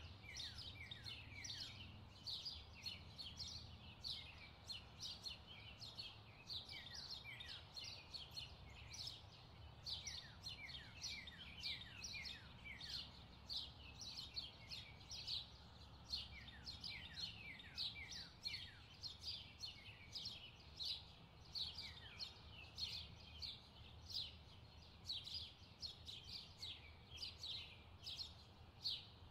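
Small birds chirping without pause, a stream of short, quick falling chirps several times a second, over a low steady hum.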